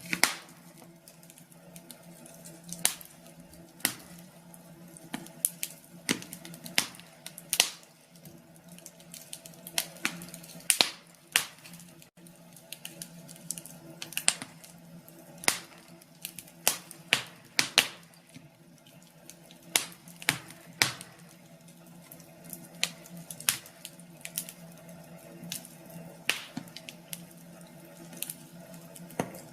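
Wood fire crackling, with irregular sharp pops and snaps, a few every second or two, over a faint steady hum.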